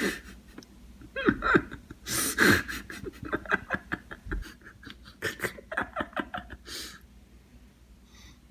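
A person laughing and panting: breathy bursts and quick repeated laughs.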